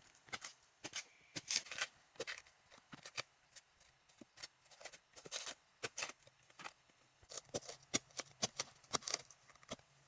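A string of irregular light clicks and rustles, like small objects or material being handled.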